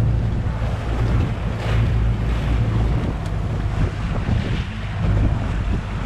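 Wind buffeting the microphone over the rush of water and a low, steady rumble from a catamaran under way on open water.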